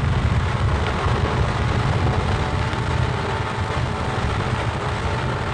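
A 2009 Suzuki GSX-R 600 ridden steadily at speed: rushing wind and road noise with the bike's inline-four engine running underneath at an even pace.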